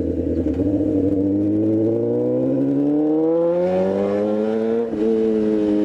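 Motorcycle engine under way, its pitch rising steadily as it accelerates, with a brief break about five seconds in as the rider shifts up a gear, after which it pulls on at a slightly lower pitch.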